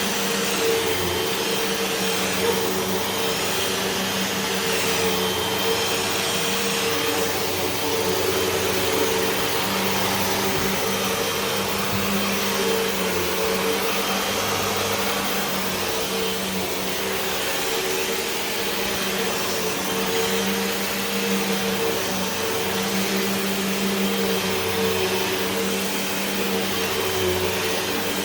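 Hoover WindTunnel 2 Whole House Rewind upright vacuum cleaner running steadily, a constant motor hum over airflow hiss.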